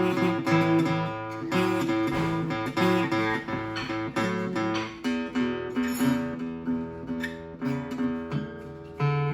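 Acoustic guitar playing a 12-bar blues, chords changing over a rhythmic moving bass line.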